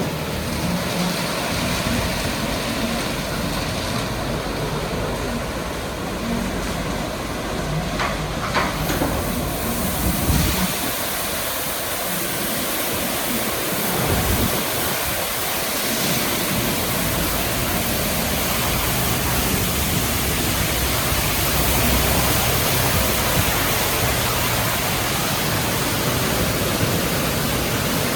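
NCS/MacNeil car wash equipment running: a steady rush of water spray over a low machine rumble. A hissier spray comes on about nine seconds in.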